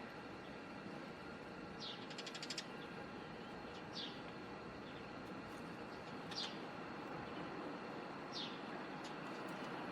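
Eurasian tree sparrows chirping: single short, high chirps that slide downward, about every two seconds. Near two seconds in there is a brief run of quick ticks. A steady background hiss runs underneath.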